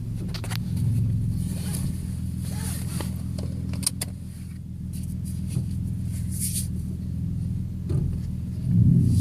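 A 2013 Ford F-150's 3.7-litre V6 with a Flowmaster Super 40 dual exhaust running as the truck drives, heard from inside the cab with the windows up: a steady low drone that swells briefly near the end, with a few light clicks and rattles.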